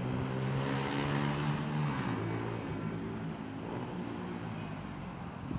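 A motor vehicle's engine passing, a low hum with a steady pitch, loudest in the first two seconds and then fading away.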